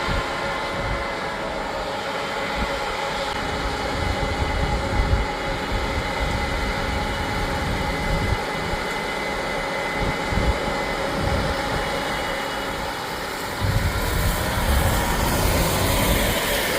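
Harvest machinery engine running steadily with a constant mechanical drone and uneven low rumbling, which grows heavier near the end.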